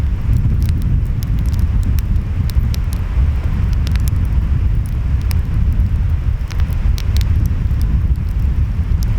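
Wood fire crackling, with irregular sharp pops and snaps, over a steady low rumble of ocean surf and wind.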